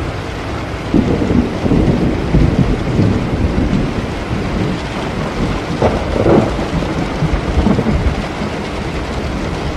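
Steady rain with rolling thunder: a low rumble swells up about a second in and rolls on, and another rumble peaks around six seconds in.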